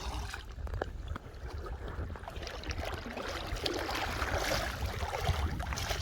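Water splashing and gurgling close by, with many small clicks and a low rumble of wind on the microphone.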